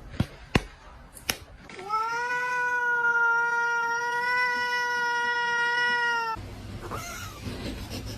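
A few sharp clicks, then a domestic cat gives one long yowl held at an even pitch for about four and a half seconds.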